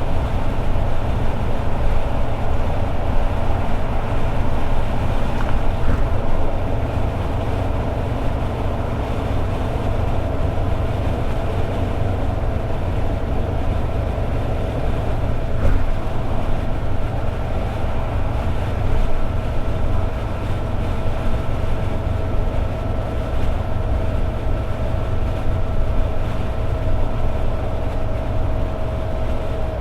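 Toyota AE86 Sprinter Trueno's 4A-GE four-cylinder engine running at a steady highway cruise, under a heavy low drone of road noise, with a steady high whine that drops slightly in pitch near the end.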